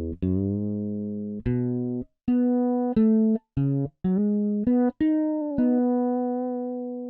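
Sampled fretless electric bass from the EZbass Fretless expansion playing a MIDI bass line. It plays about nine single plucked notes, several short and clipped with brief gaps between, and ends on a held note that slowly fades.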